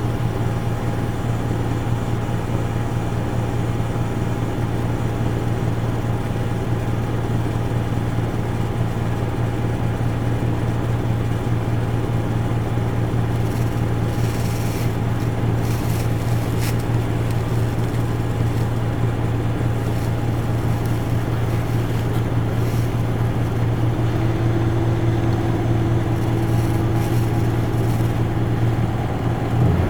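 Isuzu Erga Mio city bus heard from inside the cabin: its four-cylinder diesel engine running at a steady, unchanging speed.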